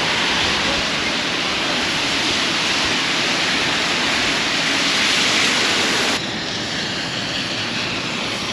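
Strong wind and heavy rain: a steady, loud rushing noise. It drops abruptly about six seconds in, then carries on a little softer.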